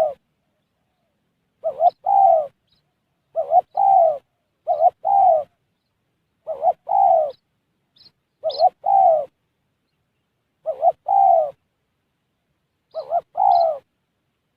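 Spotted dove cooing: a repeated phrase of a short note followed by a longer falling coo, given seven times. Faint high chirps from a small bird come in about eight seconds in.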